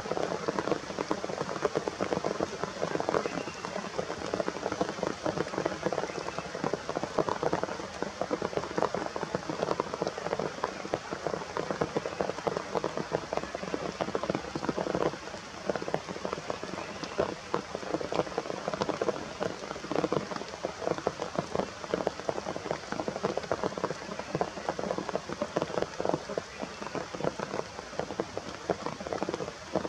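Steady rain falling, a dense stream of drops hitting surfaces at an even level.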